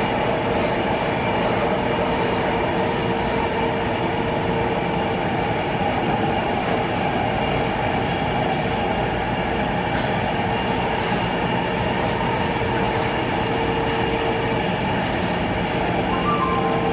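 Taipei Metro C321 train running, a steady rumble of wheels on rail with constant motor hum tones. Near the end a faint high two-note tone starts.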